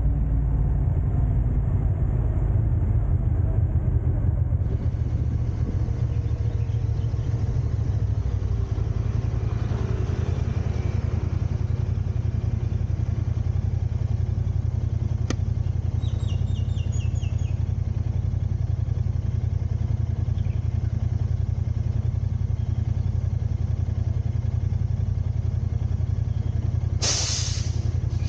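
Steady low rumble of a car driving, with engine tones falling in pitch over the first few seconds as it slows. A single click about halfway through, a few short high chirps just after, and a brief loud high-pitched burst near the end.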